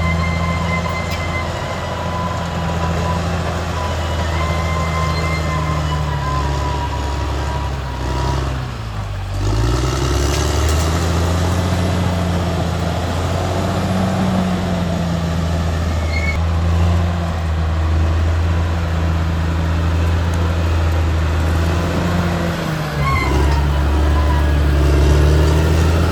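Caterpillar D6R XL bulldozer's diesel engine running under load. Its engine speed dips and recovers about nine seconds in and again near the end.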